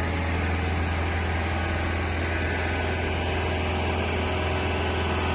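An engine idling steadily, with a strong low hum.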